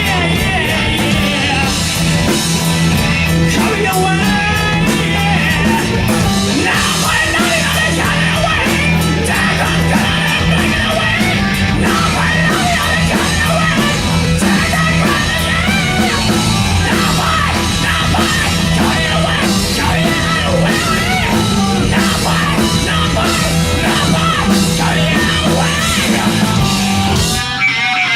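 Hard rock band playing loud, with a steady bass line under wavering lead lines. About a second before the end the band drops out, leaving a lone wavering high tone.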